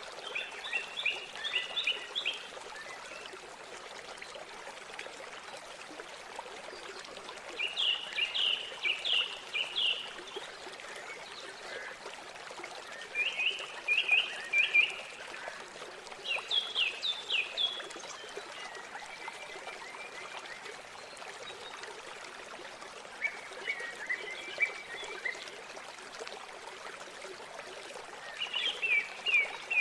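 River water flowing steadily, with a bird singing short phrases of quick, high notes, each lasting about two seconds and repeating every few seconds.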